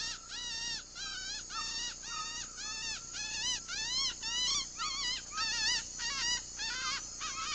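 Bird call imitated by a hunter with his voice: a quick run of short, yelping whistle-like notes, each rising and falling, two to three a second, used to lure a bird within blowgun range.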